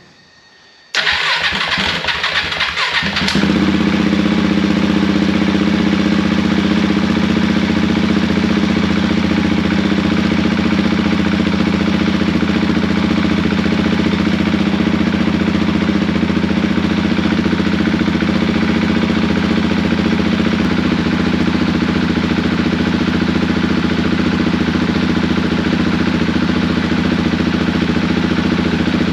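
Freshly rebuilt 2015 KTM 690 Duke single-cylinder engine being cranked for about two seconds, catching, and settling into a steady idle on its first start after the rebuild.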